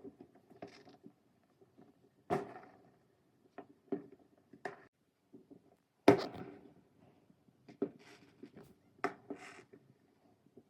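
Scattered firework bangs, about eight separate sharp reports, each with a short echoing tail; the loudest comes about six seconds in.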